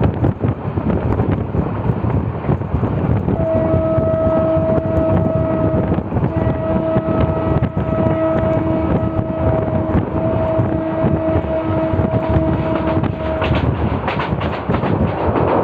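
A train running with a steady rumble and wind rush, while a train horn sounds three long, steady blasts in the middle. A brighter rushing hiss builds near the end.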